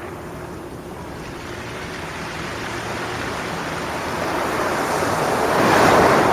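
Sea waves washing onto the shore. The surf hiss is low at first, then swells steadily to a peak near the end as a wave breaks.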